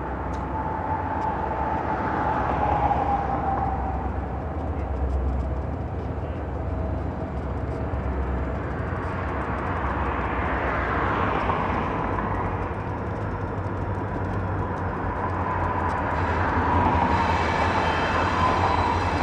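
Freight train rolling past: a steady rumble of wheels on rail, with a thin high tone wavering in and out above it.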